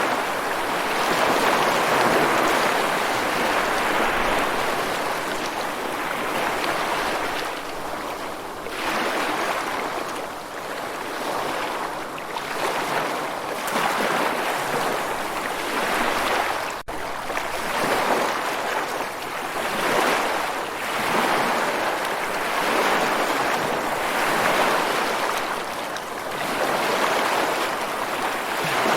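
Sea waves washing on a shore, the rush of water swelling and fading every few seconds, with a brief dropout about seventeen seconds in.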